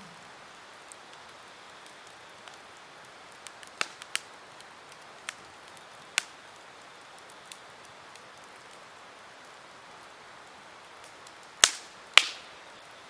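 Campfire crackling: a steady low hiss of burning wood with scattered sharp pops. A few pops come about four to six seconds in, and two loud ones about half a second apart come near the end.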